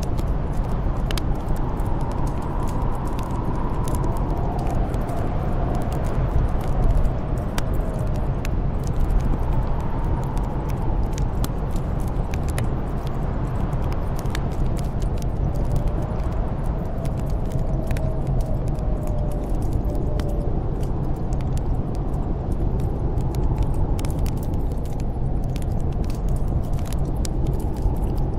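Snowstorm wind blowing steadily with a deep rumble and a faint whistle that rises and falls, while a wood fire crackles with scattered sharp pops.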